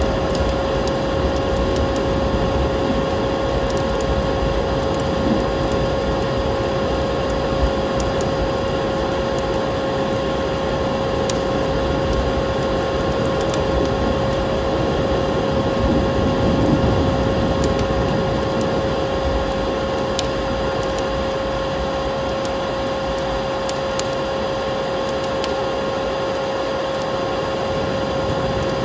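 Wood fire crackling, with scattered sharp pops over a steady rushing background and a constant hum.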